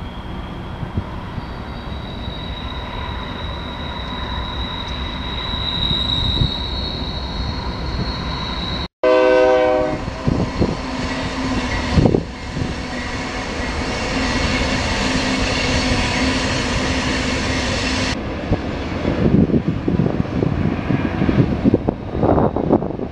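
BNSF freight train with its diesel locomotives rumbling by on a tight curve, a thin high wheel squeal riding over the noise in the first part. About nine seconds in comes a short horn blast, and then the locomotives' engines drone steadily as they pass close. Wheels clatter over the rail joints near the end.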